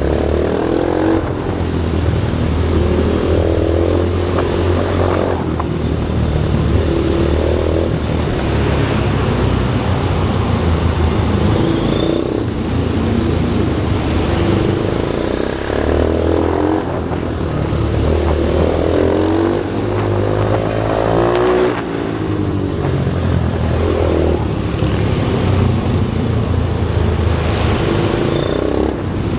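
Single-cylinder pit bike engine running hard on a track, its pitch climbing through each gear and dropping at the shifts, over and over, with dips as it comes off the throttle.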